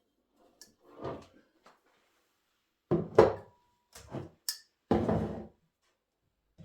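Household objects being handled and set down: a series of knocks and thuds, the loudest about three seconds in, with a longer scraping thud about five seconds in.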